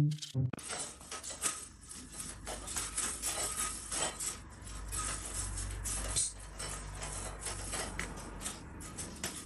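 A rapid run of small clicks and clattering knocks, like hard objects being handled or knocked about.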